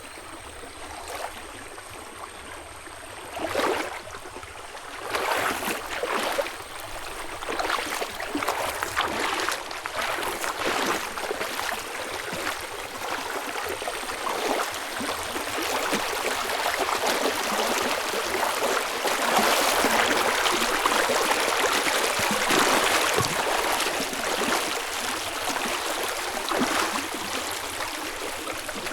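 River or stream water running with a steady rush that grows louder through the first two-thirds and eases slightly near the end. A faint, thin, high steady tone runs through the first half.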